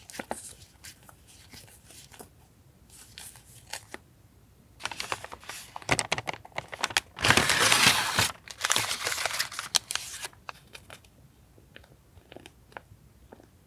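Paper and plastic stationery packaging being handled: light rustles and taps, then about five seconds of loud crinkling and tearing in the middle, then a few small clicks.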